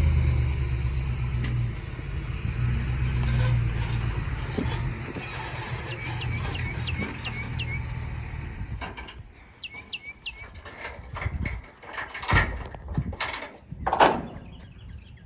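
A vehicle engine, just started, runs with a steady low hum for about nine seconds, then fades away. Birds chirp several times over it, and the last few seconds hold scattered knocks and clunks, two of them louder.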